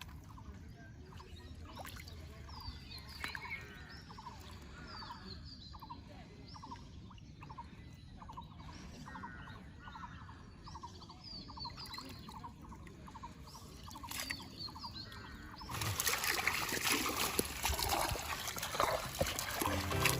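Water splashing and pouring, loud for the last four seconds or so. Before that, faint short calls repeat about twice a second over a low murmur of water.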